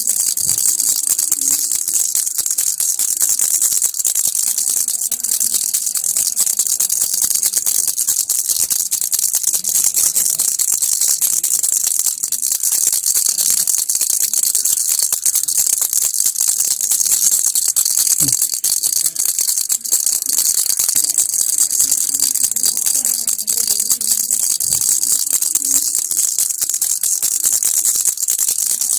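A baby's rattle (kilukki) shaken without a break, giving a steady, dense, high rattle of small beads.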